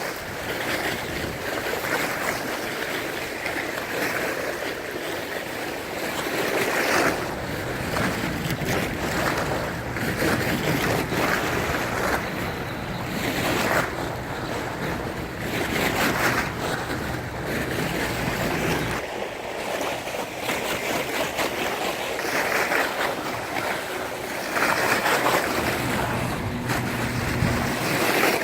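Lake waves washing and splashing against the edge of a flooded boardwalk, the surge swelling and falling every couple of seconds, with wind buffeting the microphone. The lake is at flood level, high enough to spill over onto the boardwalk.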